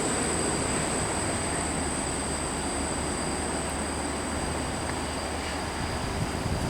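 Heavy vehicle's diesel engine running with a steady low hum that slowly fades, over a constant high-pitched tone.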